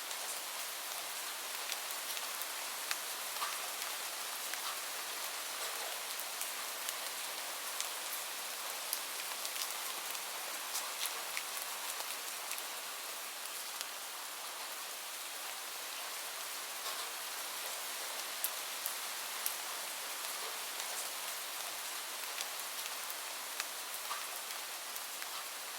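Steady rain falling on a surface: a continuous even hiss with scattered sharper drop impacts.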